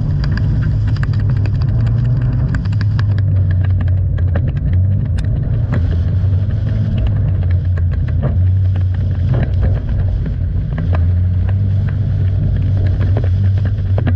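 Toyota 86's flat-four engine being driven on a rallycross run: a steady low drone with many sharp ticks and knocks over it.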